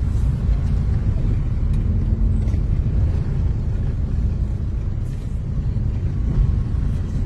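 Steady low rumble of vehicle road noise, with no distinct events.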